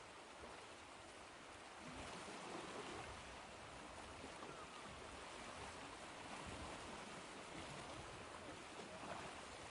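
Ocean waves washing in a soft, steady surf hiss, swelling slightly about two seconds in.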